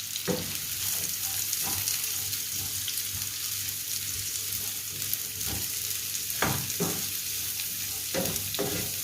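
Sliced onions sizzling in hot oil in a pan as they are sautéed and stirred, with a few short knocks against the pan along the way.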